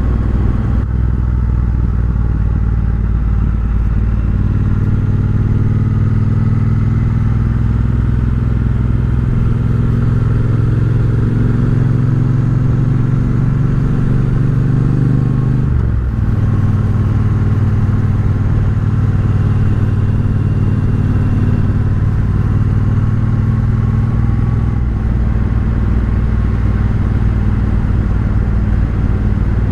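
Triumph Bobber's 1200 cc parallel-twin engine through a Vance & Hines exhaust under way. The engine note climbs slowly for about ten seconds, drops sharply about halfway through, then holds steady.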